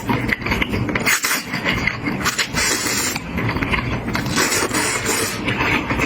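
Close-miked eating of saucy wide noodles: a run of slurps, each about half a second long, with wet chewing and small mouth clicks in between.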